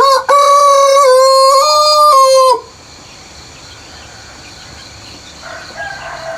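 Rooster crowing once, a loud cock-a-doodle-doo lasting about two and a half seconds with a short break just after the start. A fainter second bird call follows near the end, over a steady background of insects.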